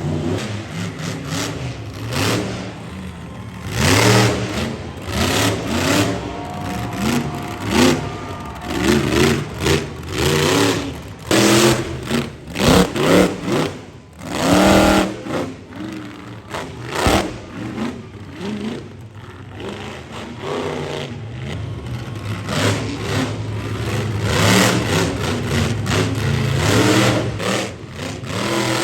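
Monster truck engine revving hard in repeated surges, its pitch rising and falling, with the loudest bursts in the first half. It then runs more steadily near the end.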